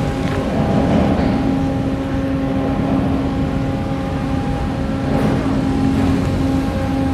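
Steady low rumble of a large car ferry's engines and machinery, with a constant hum of several fixed tones over it.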